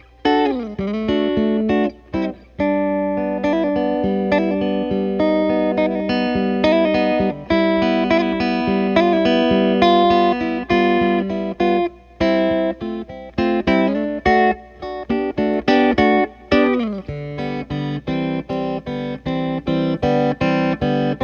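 Cigar box guitar playing an instrumental break: a run of single picked notes over a held low note, with notes gliding down in pitch about a second in and again around three-quarters of the way through.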